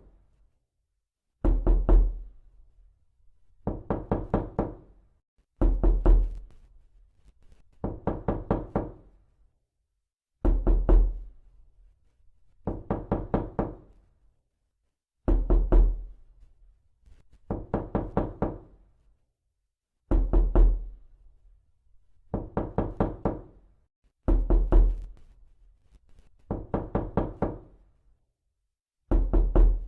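Knocking on a door in repeated rounds: quick runs of about five or six knocks, each run lasting about a second and coming back every two to two and a half seconds, some runs opening with a heavier thud.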